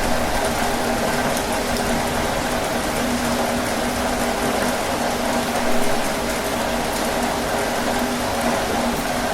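Heavy rain drumming steadily on a tin roof, a dense patter of drops, with a low steady hum underneath.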